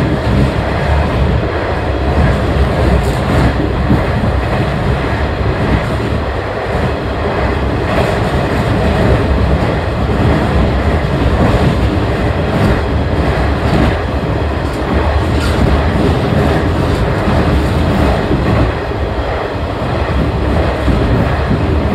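Diesel railcar running at speed along the track, heard from inside the rear of the car: a steady rumble of engine and wheels on rail, with a few scattered clicks from the rails.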